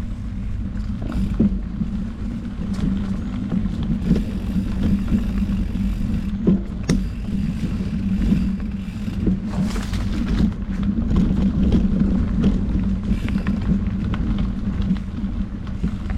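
Mountain bike rolling along a dirt trail: steady low tyre rumble with scattered knocks and rattles as it goes over the ground.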